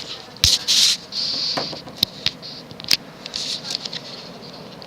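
Casablanca Ventura ceiling fan with an XLP-2000 motor running on high, the air it moves rushing in uneven hissing whooshes, with a few sharp clicks.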